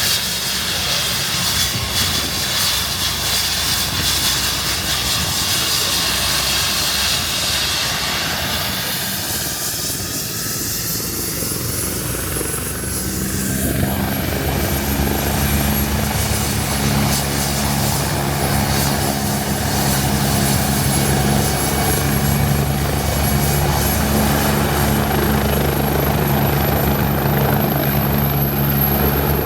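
Tour helicopter running close by at the helipad. Broad rotor and engine noise settles, about thirteen seconds in, into a steady low rotor beat with a thin high whine above it.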